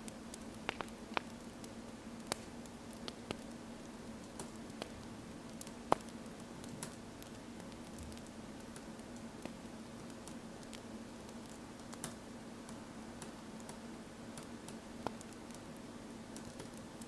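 Wood fire crackling, with irregular sharp pops over a steady hiss, the loudest pop about six seconds in, mixed with soft pen-on-paper writing sounds.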